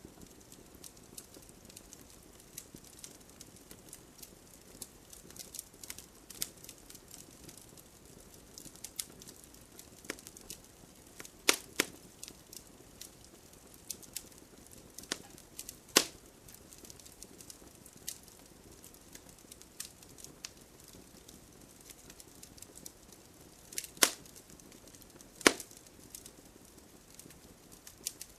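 Campfire wood burning: a steady fine crackle over a soft hiss, with louder sharp pops about 11 and 16 seconds in and twice more near the end.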